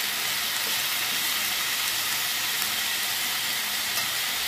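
Chopped onion, pumpkin, potato and sweet pepper frying in hot oil in a pan, giving a steady sizzle: the seasoning base of a Jamaican steamed fish being stir-fried before the coconut milk goes in.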